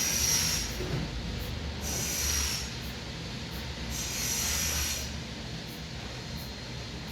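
Forceful breaths through the nose during pranayama breathing practice: three hissing breaths about two seconds apart, each just under a second long.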